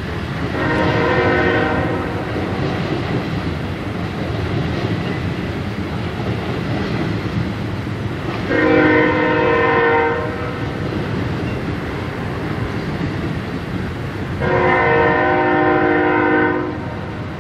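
Freight train hopper cars rolling past with a steady rumble. A locomotive air horn sounds three separate blasts over it, each a second or two long: one near the start, then two more about six seconds apart.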